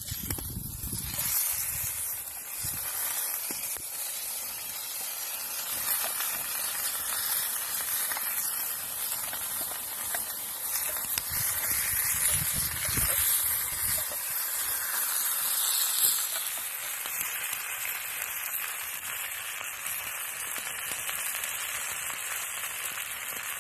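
Bologna slices and canned pork and beans sizzling in a frying pan over a wood fire, a steady hiss of frying and steam. A few soft knocks in the first few seconds as spoonfuls of beans go into the pan.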